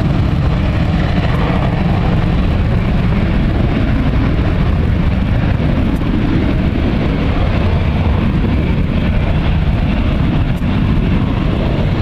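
Jet airliner engines running at high power, a loud steady rumble and roar with no clear rise or fall, typical of a departing jet on its takeoff run and climb-out.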